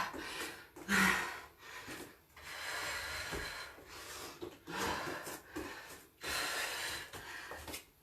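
A woman breathing hard from exertion: repeated heavy, noisy breaths in and out, roughly one a second.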